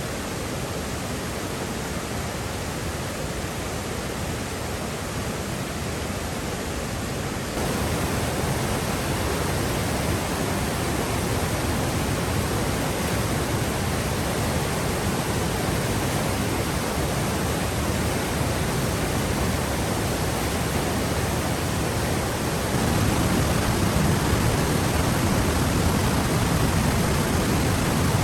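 Steady rushing noise of water, even and unbroken, stepping up in level about seven seconds in and again near the end.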